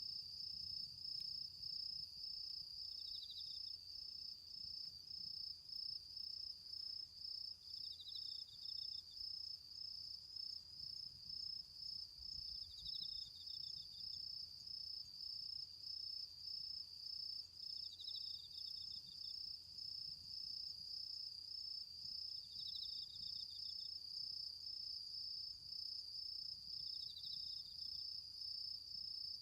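Autumn insects, crickets, calling: one keeps up a high, steady, fast-pulsing trill, while another gives a short chirp about every five seconds.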